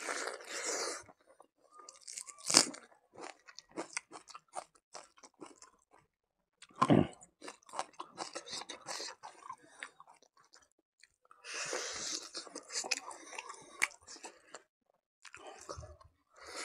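Close-up chewing and crunching of a mouthful of buffalo meat and rice eaten by hand, with many wet mouth clicks and smacks and two louder crunches about two and a half and seven seconds in.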